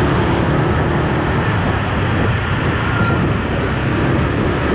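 Steady engine rumble of a moving vehicle, with wind and road or water noise around it.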